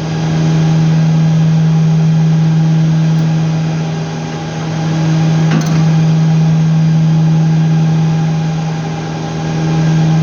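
A machine running with a steady low hum and a ring of higher tones, its loudness swelling and dipping slowly, with a single sharp click about halfway.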